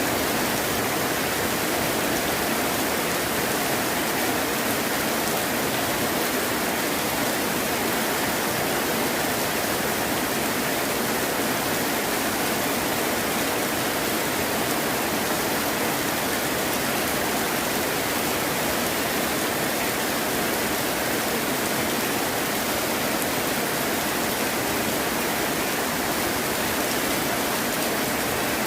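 Heavy rain falling steadily, an even hiss with no thunder or other sudden sounds.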